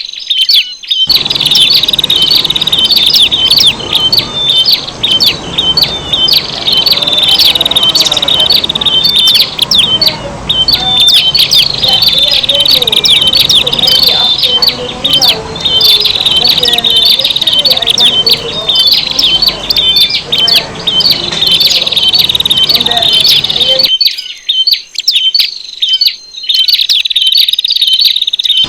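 Prenjak (prinia) birds calling noisily and without a break, a dense stream of rapid, high, short chipping notes mixed with faster rattling bursts. Lower chattering sounds join about a second in and drop out a few seconds before the end.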